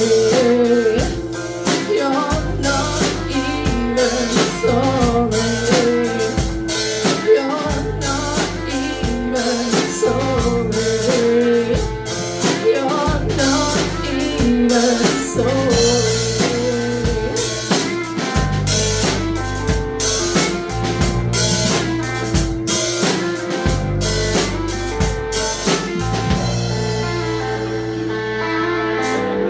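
Live indie-rock band playing a song: drum kit, guitar and bass with a singer. The cymbal strikes drop away near the end, leaving the guitars and bass.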